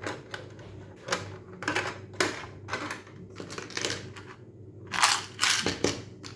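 Hello Kitty plastic shape sorter toy being handled, giving a run of short plastic clicks and clacks at an uneven pace, bunched more closely about five seconds in.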